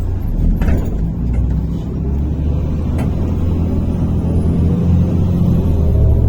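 MAZ-103 city bus heard from inside the cabin while driving: steady low engine and road rumble, with the engine note rising in pitch through the second half as the bus speeds up. There is a single sharp click about three seconds in.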